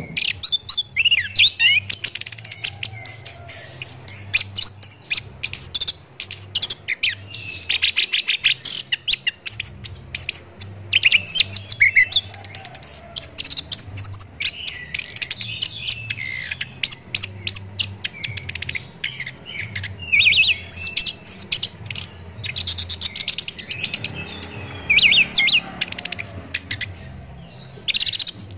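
Chestnut-capped thrush (anis kembang) singing a long, fast, varied song of high whistles and trills with only brief pauses, over a faint low hum.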